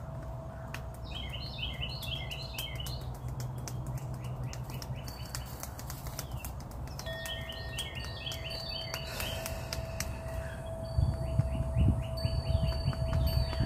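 A songbird singing three short phrases of fast, repeated chirps, over a low rumble that grows louder near the end, with scattered sharp clicks.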